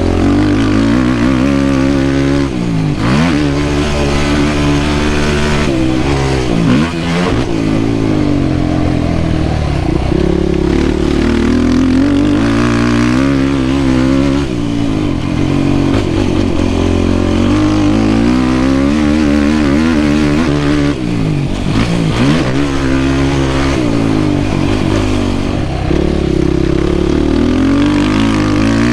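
Yamaha YFZ450R quad's single-cylinder four-stroke engine under hard riding, its pitch climbing and dropping again and again as the throttle is opened and closed through the gears.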